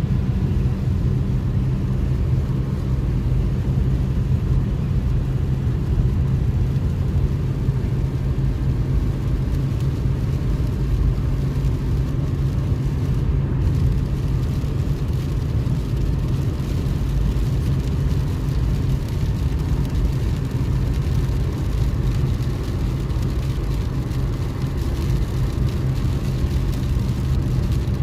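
Car driving at a steady speed: a constant low road and engine rumble with no change in pace.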